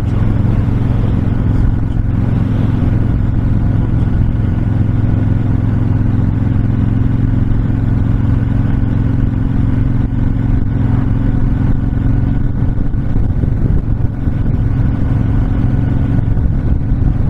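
Honda VTX1300 cruiser's V-twin engine running at a steady cruising speed, holding an even pitch, with wind rushing past.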